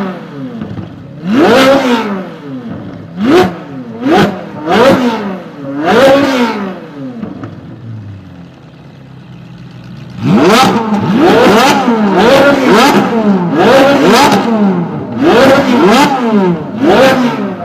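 Ferrari V8 engine revved repeatedly from idle in short blips, each a sharp climb in pitch falling back quickly. It settles to idle for a few seconds midway, then is blipped again in a quick run of revs.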